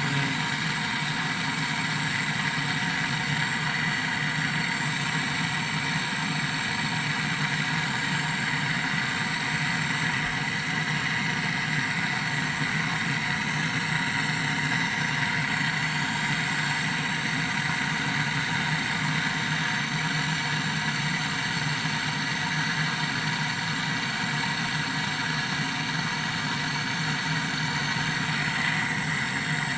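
Window air conditioner running, a steady mechanical hum with a constant whine that does not change.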